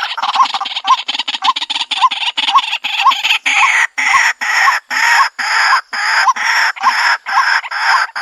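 White-breasted waterhen calling: a loud, harsh, croaking call repeated about twice a second without a break. The notes run choppier at first and become longer and more separate from about halfway through.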